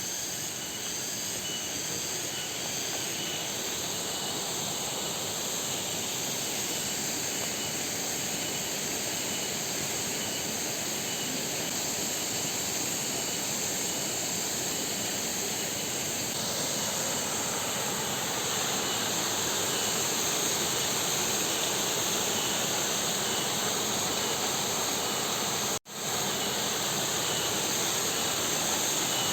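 Waterfall and river water rushing, a steady even hiss that breaks off for an instant near the end.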